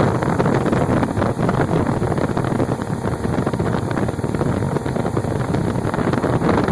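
Motorboat engine running as the boat goes along on the water, with wind buffeting the microphone.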